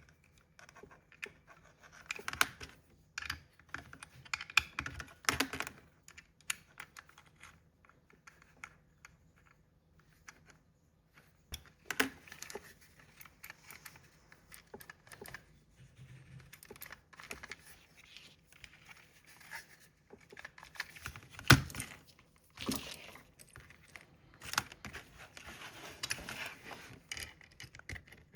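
Irregular clicks, scrapes and light knocks of small metal parts and a hand tool, as the spot welding pen's electrodes are fitted and tightened. One sharper knock about three-quarters of the way through is the loudest.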